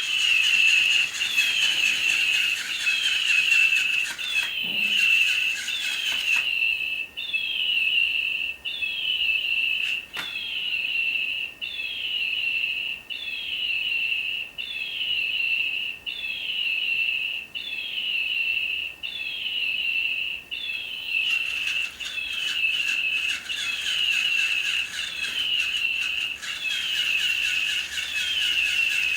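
Electronic toy bird repeating the same short tweet about every second and a half. For the first six seconds, and again from about two-thirds of the way in, a whir from its wing-flapping mechanism runs alongside the tweets.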